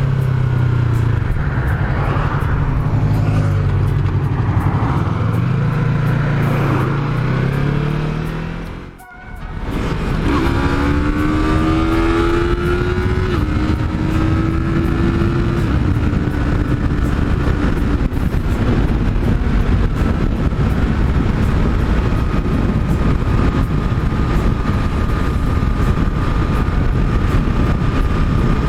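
Yamaha MT-03's 300cc parallel-twin engine under way with wind and road noise, accelerating onto the highway. The sound drops away briefly about nine seconds in, then the engine pitch rises through a couple of upshifts and settles to a steady highway cruise.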